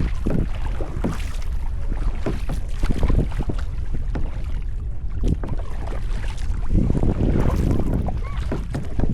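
Kayak paddle strokes on open water: paddle blades splashing and dripping in quick irregular splashes, with a denser run of splashing about seven seconds in. Wind rumbles steadily on the microphone underneath.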